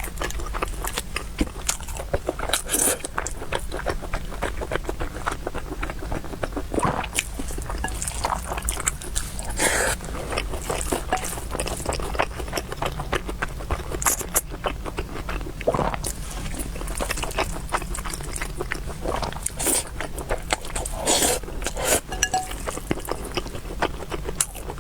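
Close-miked eating: chewing and mouth sounds, with many short clicks all through and a few longer, louder smacks or slurps.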